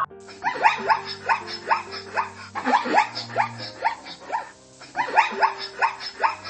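Small dogs yapping in quick, short barks, several a second, with a brief lull about two-thirds of the way through.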